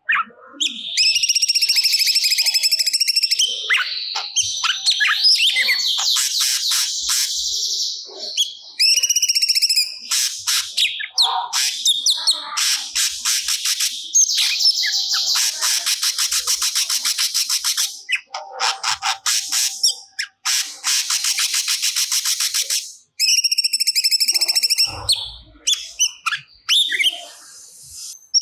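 Cucak cungkok singing non-stop, a varied run of high chirps, repeated whistled phrases and fast rattling trills with only brief pauses: the bird in full song.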